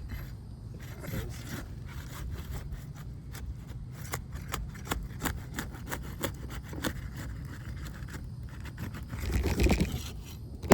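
Crowbar working under asphalt roof shingles to break their sealant strips, a run of scraping with many small clicks and crackles, growing louder shortly before the end.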